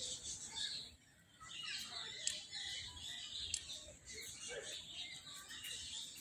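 Faint chirping of small birds in scattered short calls, with brief drops to near silence about a second in and again around four seconds in.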